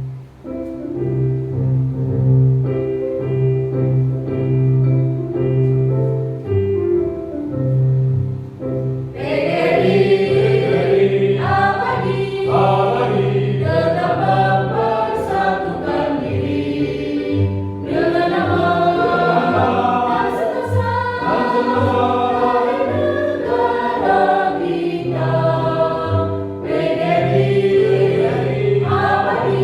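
Elementary-school choir singing with instrumental accompaniment; an instrumental introduction of sustained notes over a bass line plays for about nine seconds before the voices come in.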